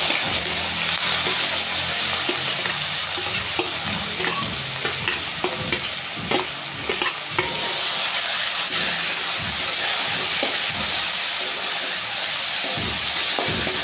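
Chopped onions sizzling in hot oil in a kadhai, being fried until they turn reddish. A spatula stirs them and knocks and scrapes against the pan many times.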